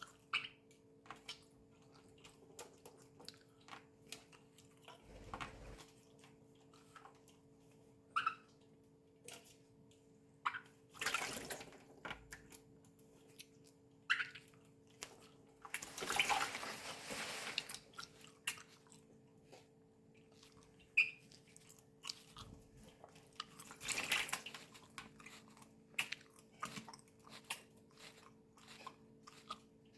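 Pet parrots bathing: water splashing and dripping in brief bursts, with many scattered small clicks and a faint steady hum underneath.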